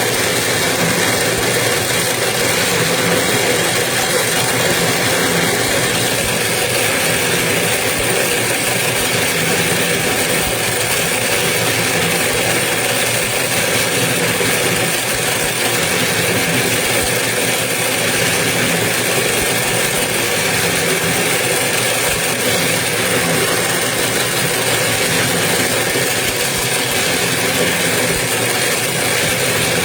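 Toroidal transformer winding machine running steadily, its motor giving an even, unchanging hum.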